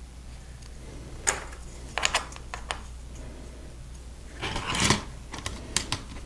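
Plastic LEGO pieces being handled: scattered sharp clicks as bricks are picked up and snapped together, with a denser rattle of pieces about four and a half seconds in.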